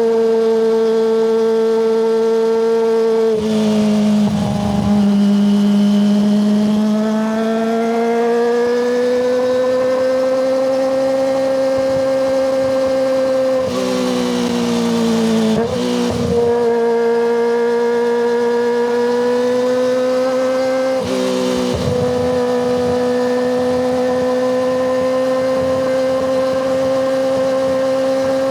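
Kawasaki ZX25RR's 250 cc inline-four running at high revs through a Yoshimura Hepta Force exhaust, a steady high-pitched howl. The pitch drops briefly three times, about four seconds in, around the middle and after about twenty seconds, each time climbing back to the same high note.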